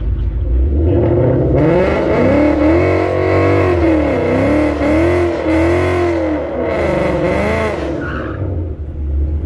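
Mustang GT's V8 engine with a full exhaust revving hard under acceleration for about seven seconds, its pitch repeatedly climbing and dipping, then easing off near the end.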